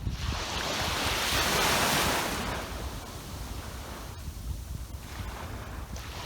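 Sea waves breaking on a sandy beach: a wave washes in loudly over the first two seconds or so and dies back to a softer hiss of surf, with wind rumbling on the microphone throughout.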